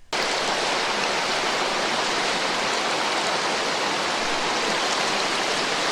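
Recorded rain sound sample playing back: a steady, even hiss of rainfall that starts abruptly just after the start.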